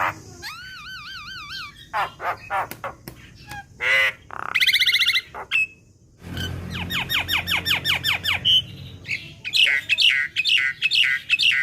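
Javan myna (jalak kebo) singing a varied, chattering song. It opens with wavering whistles and clicks, runs a fast series of short falling notes in the middle, and ends with harsh, squawky phrases.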